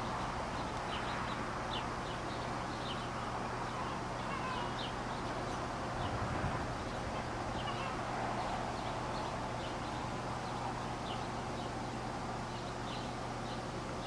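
Short high-pitched bird chirps, several every second or two, over a steady outdoor hiss.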